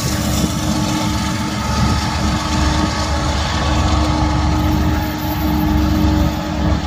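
Freight train rolling past, a steady, loud rumble with a few faint steady tones over it.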